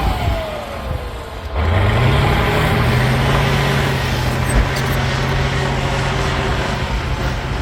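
Cat D9L bulldozer's turbocharged V12 diesel engine working: at the start the engine note drops away with a falling whine, then it revs back up about a second and a half in and runs steadily. A single short knock sounds a little past the middle.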